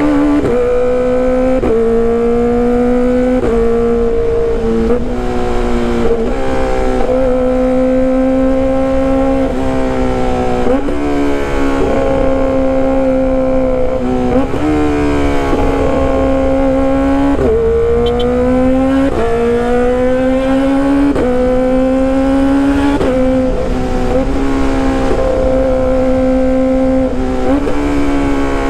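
Kawasaki ZX-25RR's high-revving 250 cc inline-four engine heard through a loud exhaust, accelerating through the gears. The pitch climbs, then drops back at each shift, over and over.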